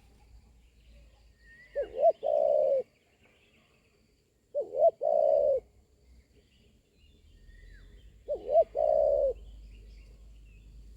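Spotted dove cooing three times, about three seconds apart. Each phrase is two short notes followed by one longer note. Faint chirps of small birds can be heard behind it.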